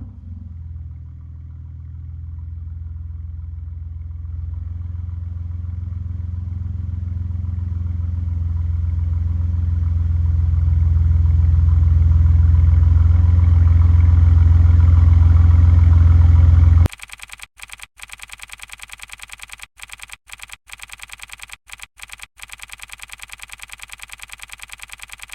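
BMW G80 M3 with a Remus Race catback exhaust, its twin-turbo inline-six running at a steady pitch and growing steadily louder for about seventeen seconds. The engine sound then cuts off suddenly, and a quieter, even, rapidly repeating sound with a few brief dropouts takes over.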